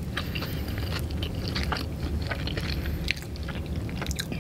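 Close-miked chewing of a panko-crusted fried chicken strip: irregular small crunches and wet mouth clicks over a low steady hum.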